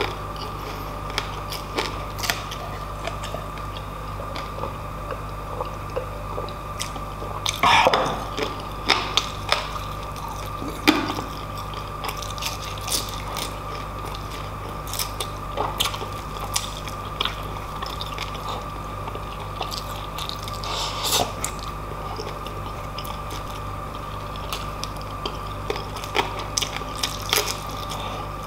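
Close-miked chewing of rice and pork eaten by hand, with many short wet clicks and smacks and a louder cluster about eight seconds in, over a steady background hum.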